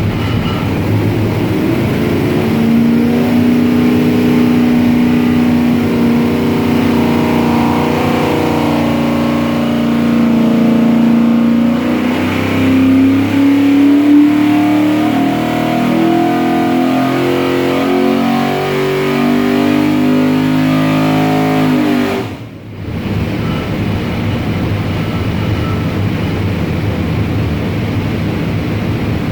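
427 cubic-inch small-block Ford V8 with Borla stack injection running a pull on an engine dyno, its note climbing slowly in pitch under load for about twenty seconds. Near the three-quarter mark it cuts off abruptly, leaving a steadier, lower rumble.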